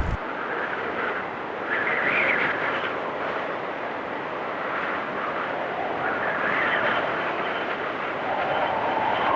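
Blizzard wind howling in gusts, a rushing noise that swells and fades every few seconds.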